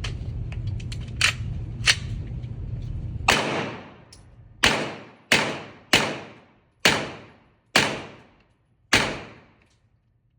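A string of seven pistol gunshots at a shooting range, fired at an irregular pace of roughly one a second, each with a fading echo. A couple of fainter sharp cracks come first, over a steady low hum that drops away with the first loud shot.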